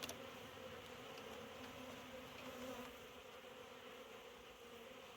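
Honeybees buzzing in a steady hum around an open nuc box, with one short sharp click at the very start.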